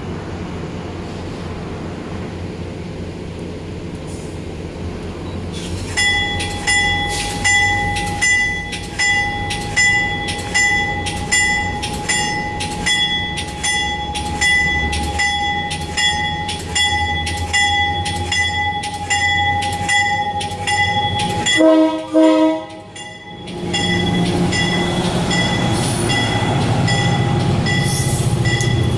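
MARC commuter train at a platform: the bell rings steadily at about one and a half to two strokes a second, the signal of a train about to depart. About 22 seconds in the horn gives a short blast. The train then starts to pull away, its rumble building while the bell keeps ringing.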